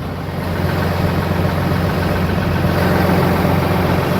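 A Ram 4500's 6.7-litre Cummins turbo-diesel idling steadily, a low, even engine hum.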